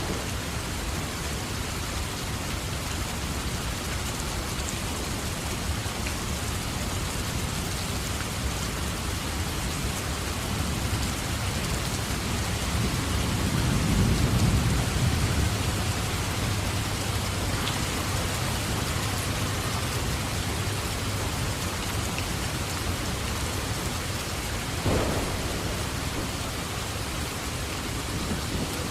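Steady heavy rain falling, with rolling thunder that swells and fades about halfway through and a short sharper thunder crack near the end.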